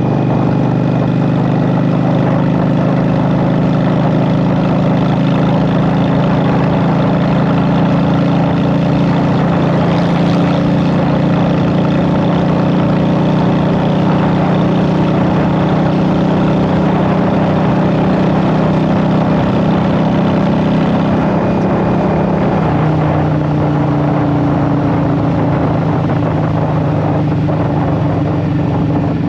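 Honda Shadow VT750's V-twin running through Vance and Hines Short Shot exhaust pipes at steady cruising revs while riding. The engine note steps down in pitch about three-quarters of the way through, then holds steady again.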